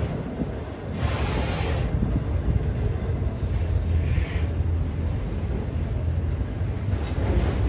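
Norfolk Southern freight train rolling past, a steady low rumble of wheels on rail, with brief hissing surges about a second in and again around four seconds.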